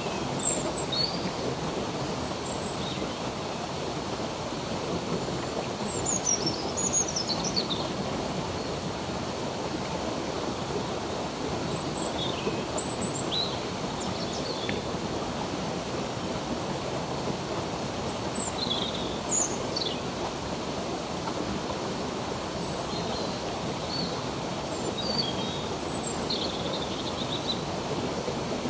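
Steady rush of flowing stream water, with small birds chirping now and then in short high notes and quick falling calls.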